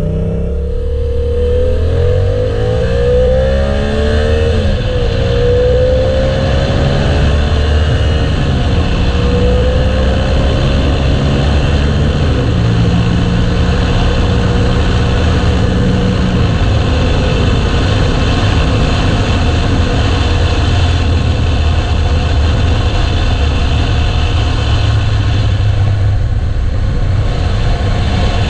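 Motorcycle engine under way, its pitch climbing and dropping back three or four times over the first twelve seconds, then holding steady, over a steady rush of noise.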